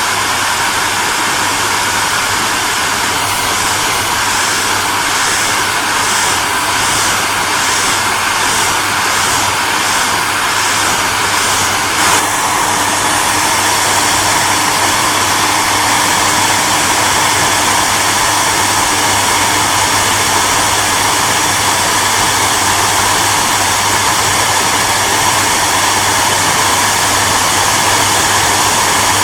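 Hairdryer running steadily: a constant rushing blow of air over a low motor hum. For the first several seconds the hiss pulses faintly, about twice a second. About twelve seconds in a brief click comes and the sound shifts slightly, with a faint steady tone added.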